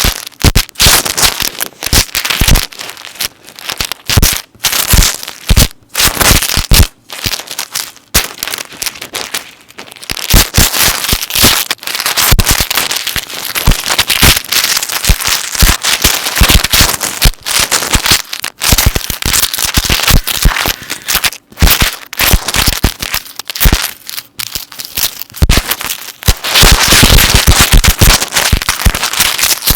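Metal necklace chains handled close to the microphone, clinking and jingling in a dense run of rapid clicks, busiest near the end.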